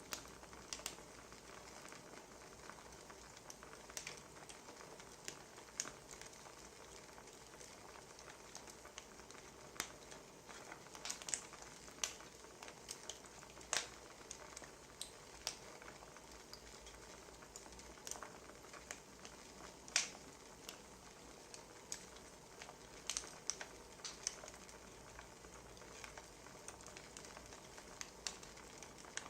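Wood fire crackling softly: a low steady hiss with irregular sharp pops, a couple of them louder about 14 and 20 seconds in.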